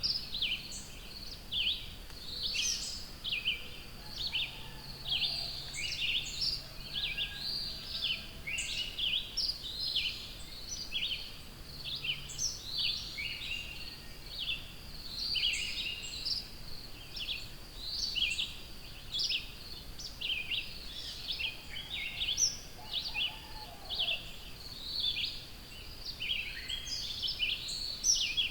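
A chorus of small songbirds in a forest, many short high chirps and song phrases overlapping without a break. A steady high thin buzz runs underneath.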